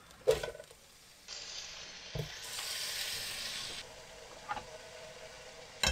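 Sliced mushrooms tipped into a hot pan and sizzling as they fry, the sizzle starting about a second in, strongest in the middle, then settling lower. A short sharp knock near the end.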